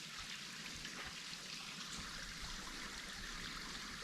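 Faint, steady trickle of water running over a small waterfall at low summer flow.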